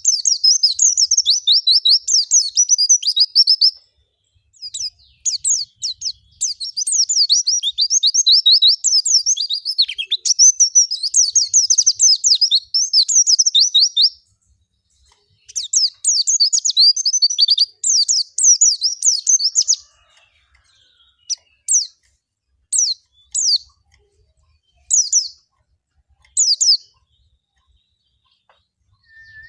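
White-eye (pleci) singing a fast, high twittering song in long unbroken runs with short gaps, then a few short separate bursts near the end. It is a wild-style 'ngalas' song used as a lure recording to set other white-eyes singing.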